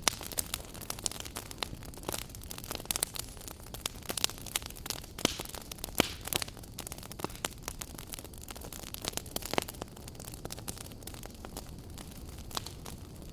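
Wood fire burning in a fireplace: irregular crackles and sharp pops over a low steady rush of flame.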